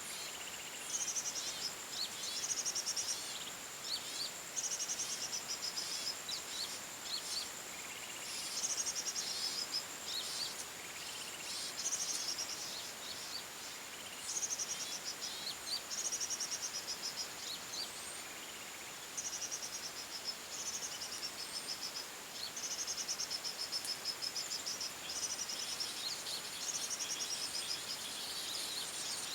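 Forest birds singing: a short rapid trill repeated every second or two, with scattered chirps, over a steady high-pitched insect drone.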